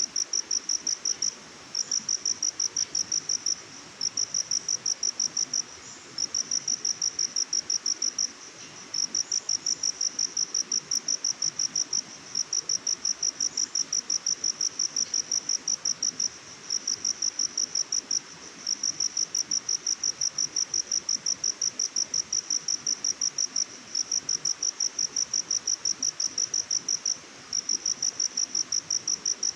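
Cricket chirping in long runs of rapid, evenly spaced high-pitched pulses, each run a couple of seconds long with short pauses between, over a faint steady hiss.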